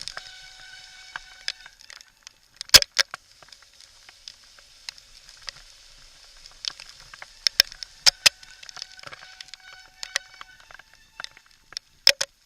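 Full-suspension mountain bike descending a rough trail: irregular sharp knocks and rattles as it rides over rocks, over a steady hiss. A faint high held tone sounds through the first two seconds and again about halfway through.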